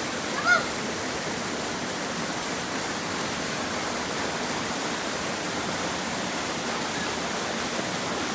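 Waterfall: a steady rush of falling water. About half a second in there is one brief pitched call, louder than the water.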